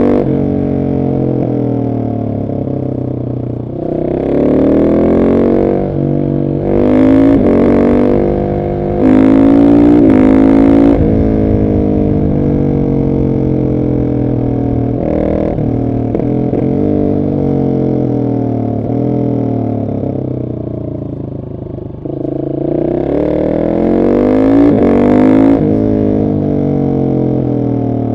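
Husqvarna 701 SM's single-cylinder engine through a decatted Arrow exhaust, accelerating hard in several rising surges broken by quick upshifts. It then falls slowly in pitch off the throttle for about ten seconds before pulling hard again near the end.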